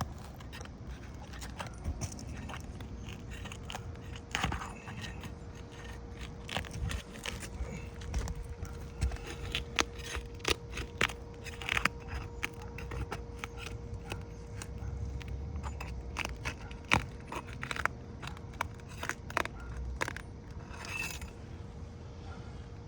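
Pry bar working under asphalt roof shingles, scraping and crackling with many irregular sharp clicks as the adhesive seal between overlapping shingles is broken loose. A faint steady hum runs under it from about three seconds in.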